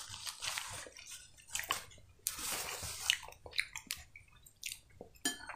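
Quiet wet mouth sounds of someone eating soup: chewing, small smacks and swallowing, broken by scattered soft clicks.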